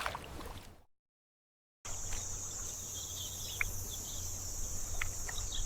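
Forest ambience: after about a second of dead silence, insects start up in a steady high-pitched drone, with a few short bird chirps over it.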